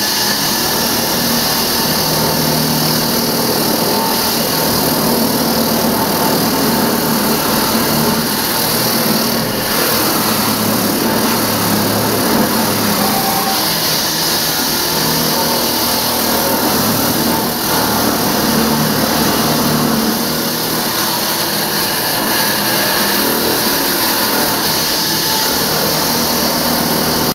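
Diamond-blade concrete saw cutting through concrete: a loud, steady mechanical noise with no letup.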